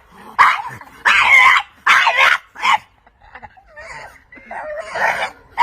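Bulldog making a string of loud, drawn-out vocal calls with a wavering pitch, four in quick succession, then softer, wobbling ones near the end.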